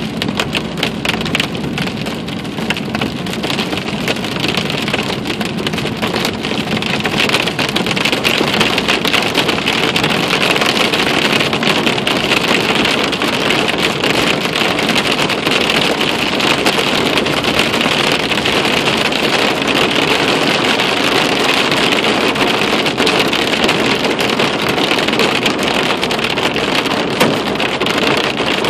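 Heavy rain falling on a car's roof and windshield, heard from inside the moving car, with tyres hissing on the flooded road; the steady noise grows louder about seven seconds in.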